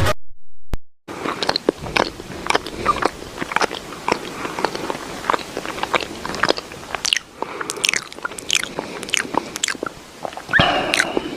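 Close-up chewing and crunching of food: many short, irregular crunches and mouth clicks, starting after about a second of silence and growing louder near the end.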